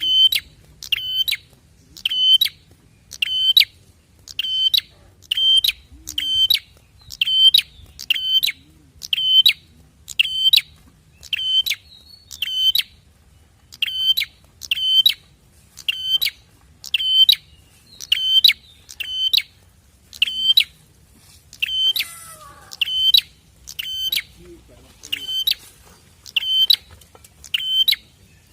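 Prinia (prenjak) calling over and over, sharp high chirps in pairs about once a second in an even, unbroken rhythm. It is a lure call ('pancingan') played to set a kept prenjak singing.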